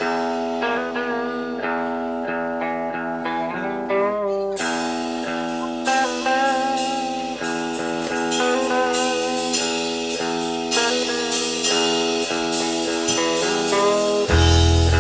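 Live band music led by guitar: sustained notes with steady picking, growing busier about four seconds in, with a heavy bass coming in near the end.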